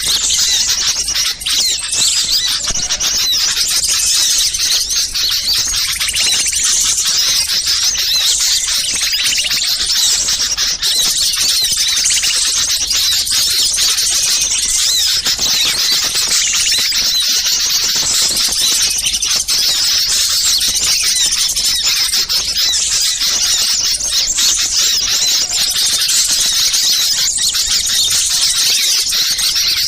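Dense chorus of many small songbirds chirping and chattering without pause: a bird-lure recording of agitated small birds.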